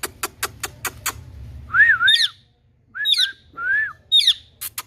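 Green ringneck parrot (rose-ringed parakeet) giving short whistled calls, some rising and falling and some sweeping sharply down, with quick runs of sharp clicks before and after them. The bird has turned aggressive and angry.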